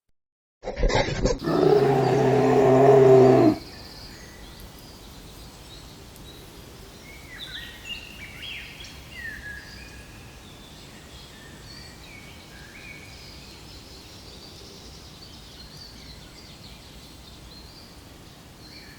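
Giant panda calling: one drawn-out, pitched bleat of about three seconds near the start. After it, faint bird chirps come over a steady outdoor background.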